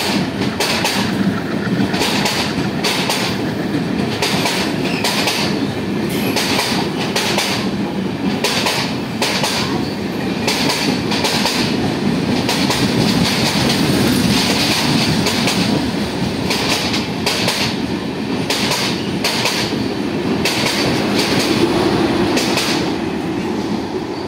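LHB passenger coaches running past at close range as the train gathers speed out of the station, with a dense, uneven series of wheel clacks over rail joints above a steady rumble. The sound falls away near the end as the last coach passes.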